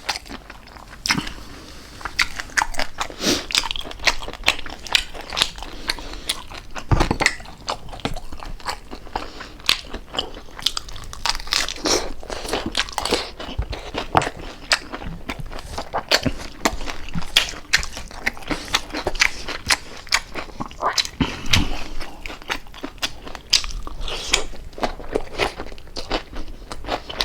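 A person chewing crispy fried pork jowl close to the microphone: many quick, irregular crunches of the crackling skin, with a few louder bites, one about seven seconds in and another past twenty seconds.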